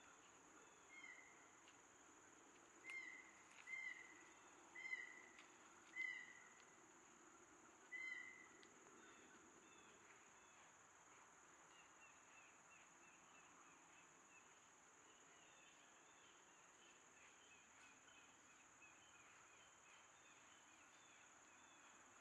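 Faint bird calls: six short, clear calls spaced a second or two apart in the first eight seconds, then softer chirping, over a steady high-pitched insect drone.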